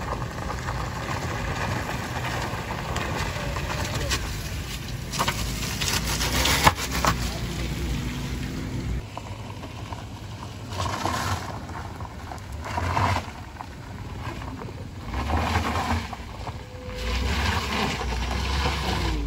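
Car engines working under load up a steep, wet gravel incline, as cars pass close one after another, rising and falling as each goes by. The heaviest, closest engine rumble comes near the end, as a Nissan MPV climbs past.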